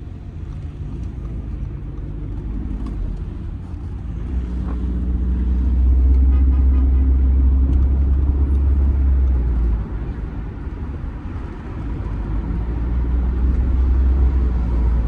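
Audi A6 2.0 TDI four-cylinder diesel car driving: a low drone of engine and road noise that grows louder about five seconds in, drops off suddenly near ten seconds, then builds again.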